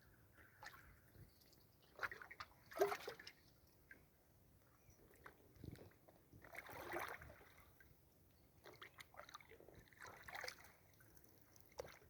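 Kayak paddle strokes in lake water: quiet splashing and dripping in three clusters, a few seconds apart.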